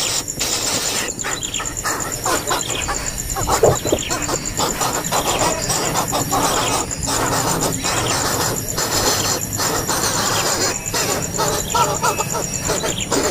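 Nestling birds squealing and chirping as they beg in the nest, with rustling and scuffling among them. A steady, finely pulsing high-pitched drone runs underneath.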